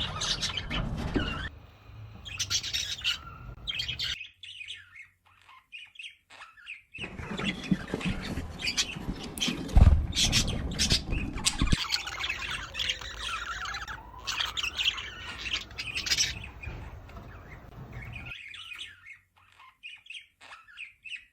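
Budgerigars chirping and chattering in quick short calls throughout, over stretches of low background rumble, with a low thump about halfway through.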